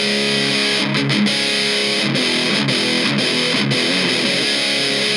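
Epiphone Les Paul Special VE electric guitar played through a Kokko KH8 high-gain distortion pedal with the tone knob turned up toward treble: loud, heavily distorted metal-style chords with a very bright top end. The sustained chords break off briefly several times from about a second in.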